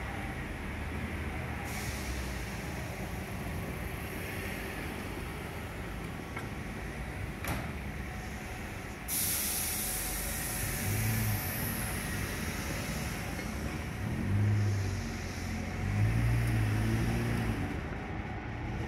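Tobu 8000-series electric train standing at a platform, then moving off. A sharp clack comes about seven seconds in, then a loud hiss of the air brakes releasing about nine seconds in. The train's low motor hum then swells several times as it pulls away.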